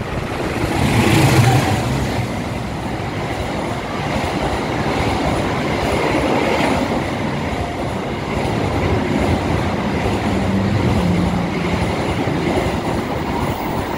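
Kertajaya passenger train running through a station at high speed. The diesel locomotive passes about a second in, the loudest moment, and is followed by the steady rolling noise of its coaches going by.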